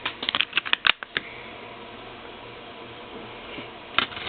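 Quick clicks and taps of a plastic Blu-ray case being handled, a run of them in the first second and a couple more near the end, over a steady low hum.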